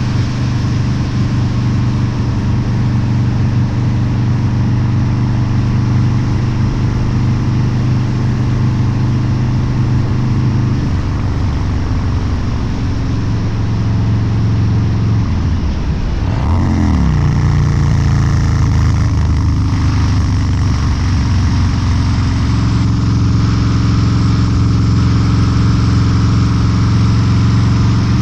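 Harley-Davidson Low Rider's 129 cubic inch V-twin, with a Two Brothers Racing exhaust, running under way on the road. It holds a steady note, changes pitch about eleven seconds in and sweeps quickly around sixteen seconds. After that it settles into a steady, somewhat louder note.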